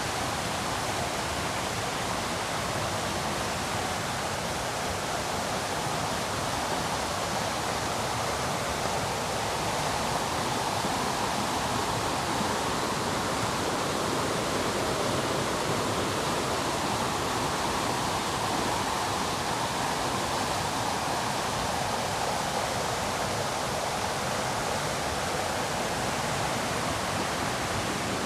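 River rapids rushing steadily, a continuous hiss of falling water that swells a little midway.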